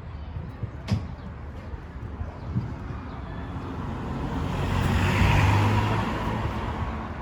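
A road vehicle passing by, its engine and tyre noise swelling to a peak about five seconds in and then fading away. A single sharp click about a second in.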